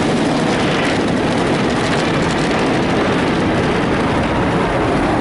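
Istobal automatic car wash brushes spinning fast and scrubbing over the car, heard from inside the cabin as a steady, loud swishing and machine noise.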